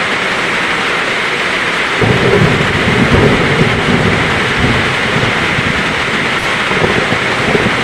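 Heavy rain falling steadily, with a low roll of thunder rumbling in about two seconds in and fading out over the next few seconds.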